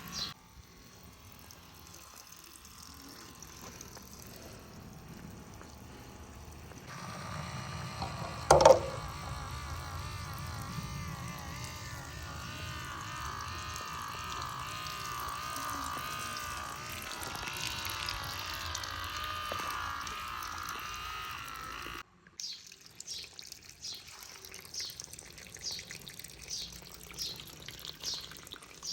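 Water pouring steadily, with a faint small-motor hum. A sharp click comes about eight and a half seconds in, and the flow sound cuts off abruptly about 22 seconds in, leaving faint rapid chirping.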